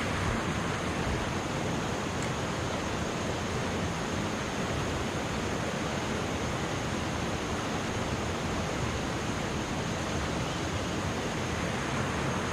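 Steady rush of river water pouring over an old dam.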